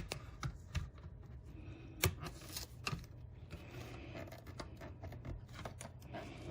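Plastic hard drive enclosure case being pried open by hand: irregular sharp clicks and scraping as the snap-fit clips are worked loose, the loudest click about two seconds in.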